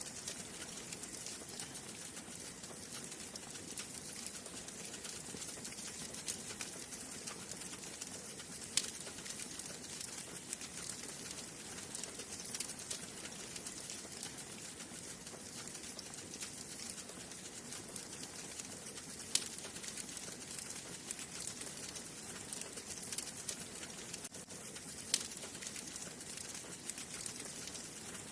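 Wood fire burning in a fireplace: a steady soft hiss with constant light crackling, and a few sharper, louder pops of burning wood.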